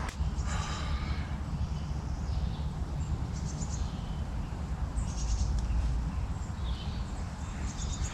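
Birds calling in woodland: a few harsh, raspy calls a couple of seconds apart over a steady low rumble.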